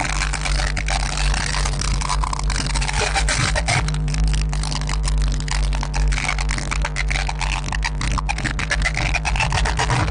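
Loud, bass-heavy music blasting from DJ sound-system speaker stacks, harsh and distorted in the recording.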